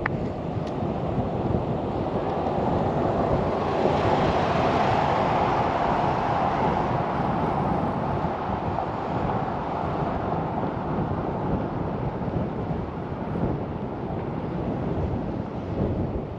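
Wind and road noise rushing over the microphone while cycling, a steady rush that swells louder and brighter for several seconds in the first half, then eases back.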